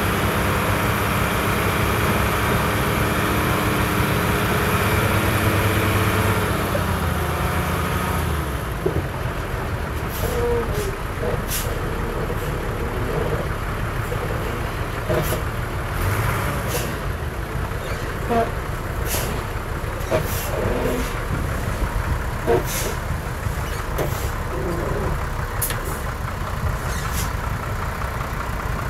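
Heavy diesel earthmoving machinery running: louder for the first eight seconds or so, then lower, with many sharp clanks and knocks scattered through the rest.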